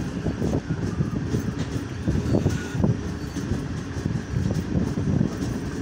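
Passenger train coach running on the track, with a steady low rumble and irregular clattering knocks of the wheels over rail joints, heard from the open coach door.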